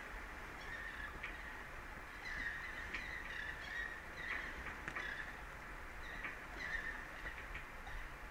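Short, repeated bird calls, each a few tenths of a second long and coming about once a second, over a steady low rumble of wind and sea.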